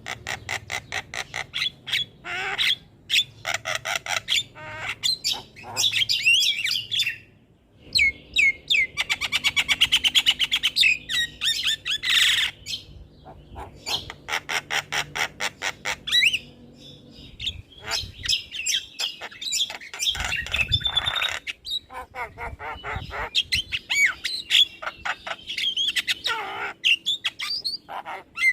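Javan myna (jalak kebo) song: a busy, varied medley of fast rattling click series, whistled notes that slide up and down, and harsh squawks, with short pauses between phrases.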